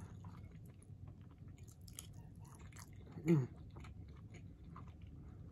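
Close-miked chewing of a mouthful of steak: soft, wet mouth clicks and smacks, with a short hummed "mm" falling in pitch about three seconds in.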